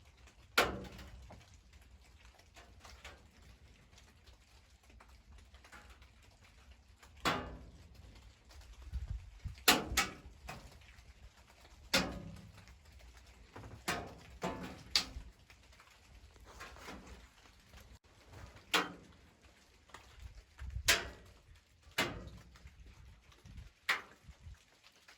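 Rainwater dripping out of overhead trees onto a tin roof, heard from inside the deer stand beneath it: irregular sharp plinks and knocks, a dozen or so at uneven gaps, some much louder than others, over a faint steady background.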